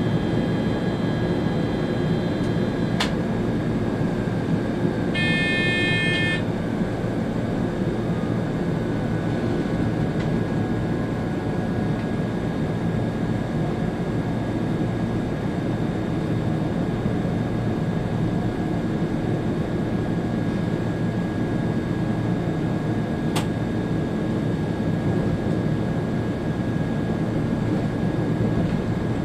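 Steady running rumble of a Railjet high-speed train heard from inside the driver's cab, with a constant hum. A short electronic beep sounds about five seconds in.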